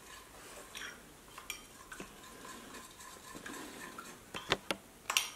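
Metal spoon stirring a thin soy-and-vinegar dipping sauce in a small ceramic bowl: soft scraping with light clinks against the bowl, and a few sharper taps in the last second or so.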